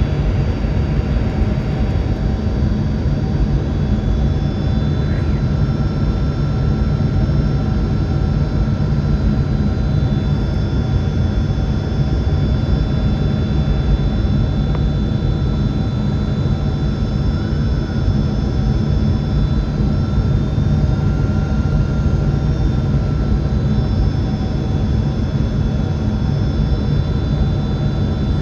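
Steady cabin noise inside a Boeing 767-400 airliner in flight: a deep rumble of airflow and engines, with faint steady whining tones above it.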